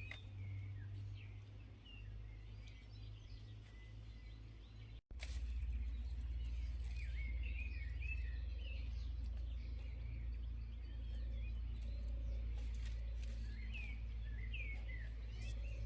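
Small birds chirping in many short calls over a steady low outdoor rumble. The sound cuts out for an instant about five seconds in, and after that the rumble is louder.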